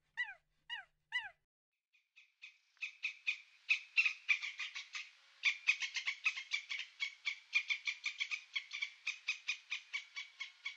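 Animal calls: a few short falling squeaks, then a fast, even run of chattering calls, about five a second, that goes on to near the end.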